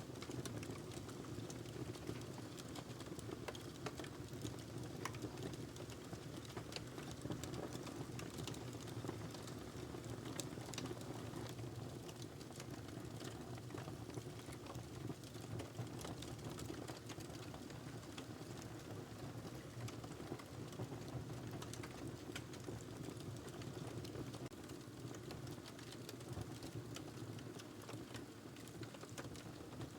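Wood fire crackling in a fireplace: frequent small, irregular pops and snaps over a steady low rush of flame.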